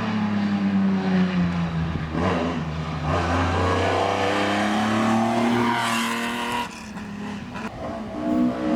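Hillclimb race car engine at high revs, its pitch climbing as it accelerates up the hill. About two-thirds of the way in the sound falls away suddenly, then an engine picks up again near the end.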